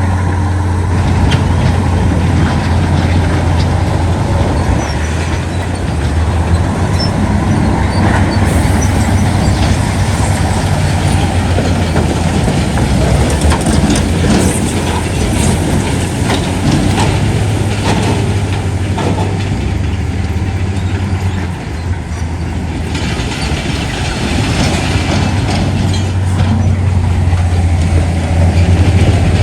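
Heavy diesel earthmoving machinery running steadily under load, a low engine drone with frequent metallic clanks and rattles.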